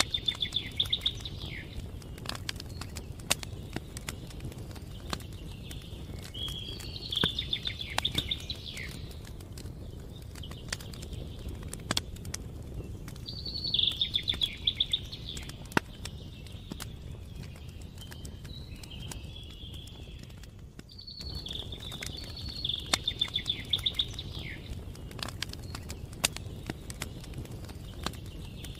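Campfire crackling with frequent sharp pops over a low steady rumble, while a songbird repeats a short, fast trilled phrase about every seven seconds.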